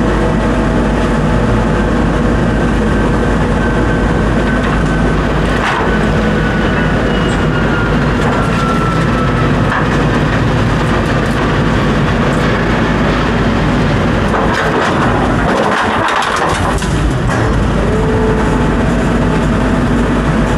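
Heavy-equipment engine running steadily, with a few knocks and a faint whine in the middle.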